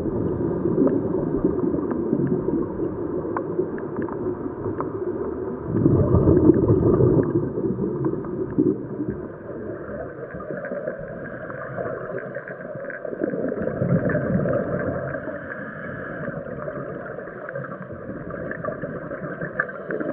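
Scuba diver breathing through a regulator underwater, with exhaled bubbles gurgling in swells every several seconds.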